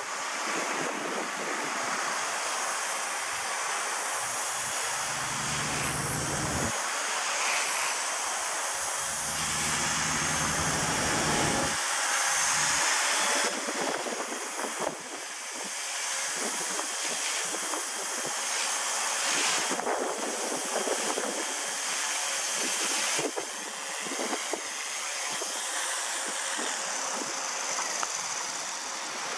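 Walkera V120D02 RC helicopter flying, its electric motor and rotor giving a high whine that wavers in pitch as it is flown. Gusts of wind buffet the microphone with low rumbles twice in the first half.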